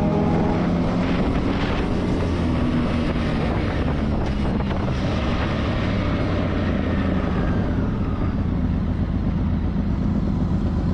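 Motorcycle riding along, its engine note dropping as it eases off at the start, then running steadily under heavy wind noise on the microphone.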